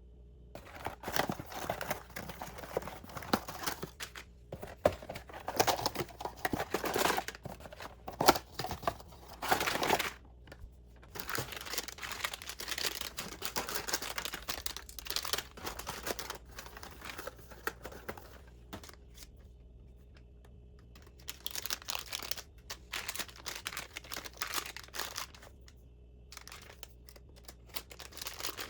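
Packaging or wrapping being handled, crinkling and rustling in irregular bursts with several short pauses.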